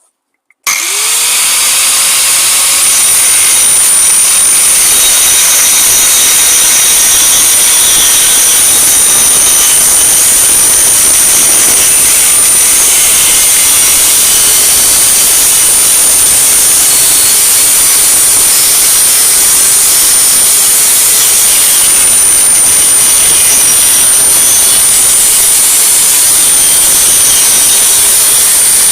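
Angle grinder with a cut-off blade cutting through a steel exhaust pipe. It starts under a second in, spinning up with a quick rising whine, then runs loud and steady with a high-pitched screech.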